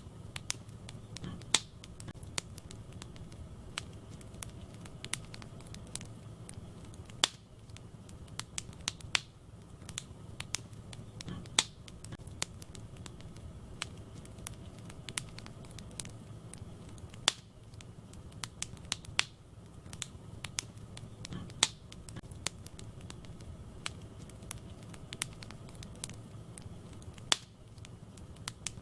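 Wood fire burning in a fireplace, with sharp, irregular crackles and pops over a steady low rumble of the flames.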